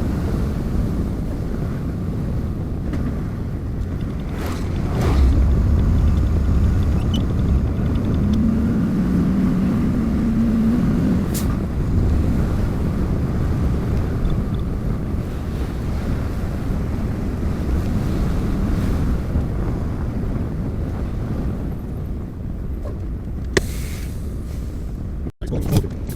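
Steady low rumble of a moving vehicle on the road, with some wind noise and a few faint clicks; the sound cuts out for an instant near the end.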